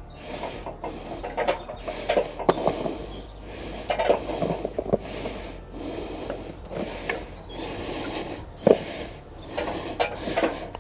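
Irregular clicks, knocks and rustling as sausages are handled and laid around the food in a cast-iron pot.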